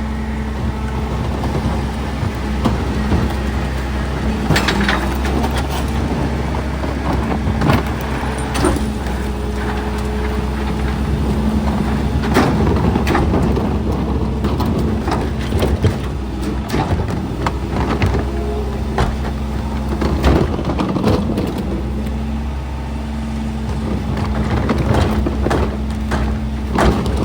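Garbage truck engine running steadily, with repeated clanks and knocks throughout.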